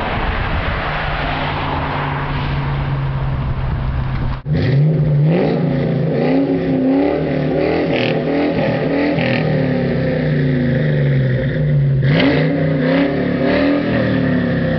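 2004 Mustang GT's 4.6-litre V8 through Mac mufflers and an off-road H-pipe: a steady exhaust note for about four seconds, then after a sudden break the engine revs up and down repeatedly, with a sharp rise in pitch about twelve seconds in.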